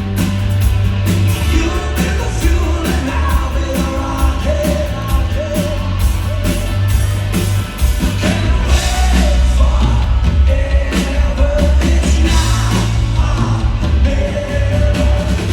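Live rock band playing loudly with heavy bass and a singing voice holding long notes, heard through the reverberation of a large hall.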